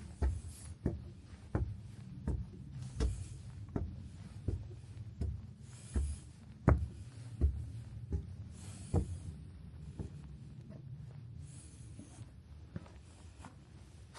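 Footsteps at a steady walking pace, about three steps every two seconds, growing fainter toward the end. A soft hiss swells every few seconds.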